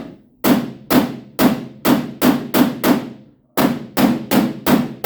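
A body hammer striking the sheet-metal quarter panel of a pickup truck in steady repeated blows, about two to three a second, each with a short metallic ring, pausing briefly a little past halfway, as the damaged area is hammered level.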